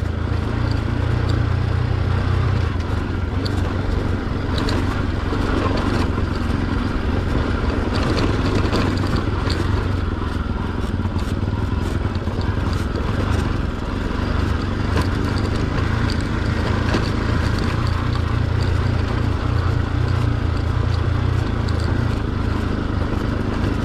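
Motorcycle engine running at a steady pace while riding over a rough, broken road. Scattered short clicks and knocks run through it.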